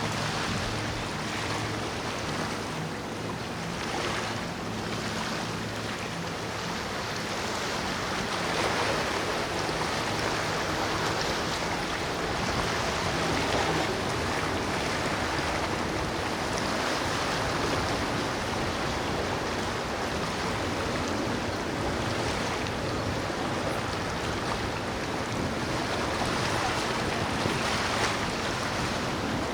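Wind and rushing water with a low steady boat-engine hum underneath; the water noise grows louder about eight seconds in.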